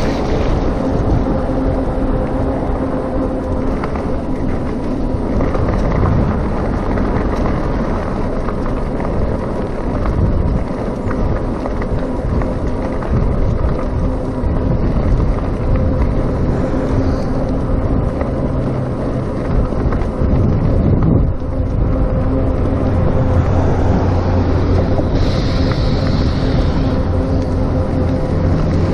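Wind buffeting the microphone over the road and tyre noise of a RadMini electric bike in motion. A faint steady hum fades out a few seconds in and returns about two-thirds of the way through.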